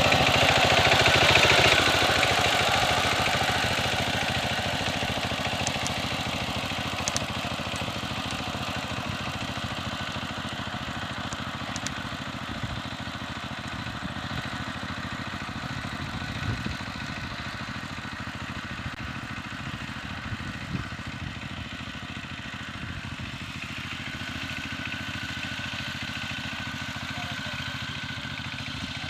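Power tiller's engine running steadily with an even, knocking-free throb. It is loudest about a second in, then fades over the next several seconds and holds steady.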